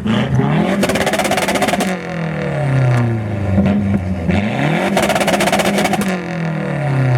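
A car engine revved hard twice, its pitch climbing and falling each time, with a harsh rapid crackling at the top of each rev.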